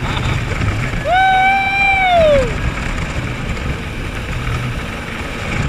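Jet ski engine running under a steady rush of wind and water. About a second in comes one long high-pitched call that holds its pitch and then falls away.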